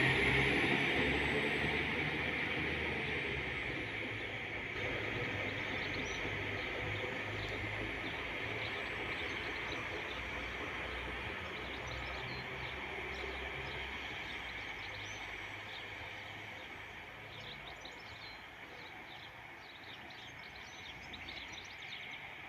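Northern Class 195 diesel multiple unit pulling away, its engine and running noise fading steadily into the distance. Birds chirp over it near the end.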